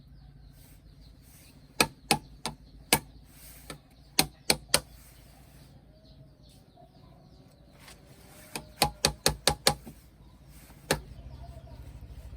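A series of sharp knocks in quick groups: about four, then three, then a fast run of around seven, and one more near the end, over a low steady background hum.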